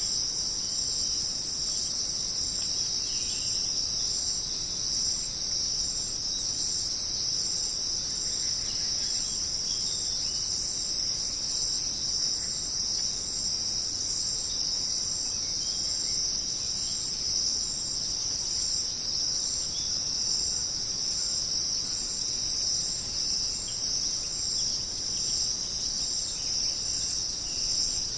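Dense, steady chorus of jungle insects, a continuous high-pitched shrill that does not let up.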